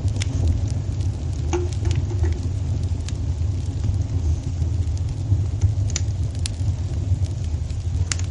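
Fireplace fire burning: a steady low rumble of flames with irregular sharp crackles and pops scattered throughout.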